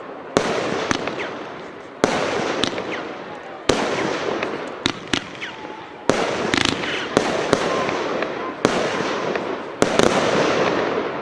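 A 25-shot consumer fireworks battery (cake) firing, about one shot every one to two seconds. Each shot is a sharp report that trails off over a second or so.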